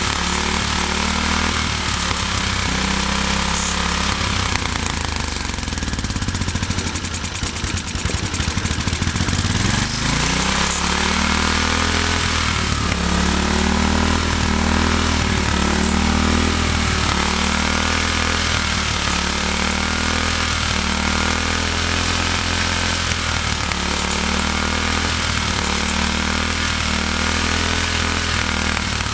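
Snapper LT11 lawn tractor's Briggs & Stratton engine running after sitting unused for seven years, its speed rising and falling every second or two. About a third of the way in it sags lower for a few seconds, then picks back up. It is running unevenly, with the throttle linkage not yet working.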